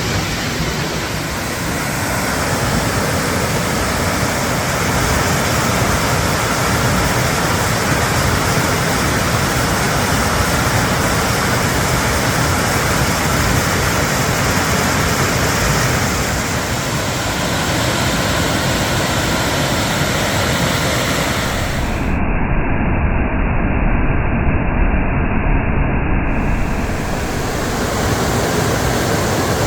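Waterfall: a loud, steady rush of falling water. For a few seconds about three quarters through, the high hiss drops out and the rush sounds duller.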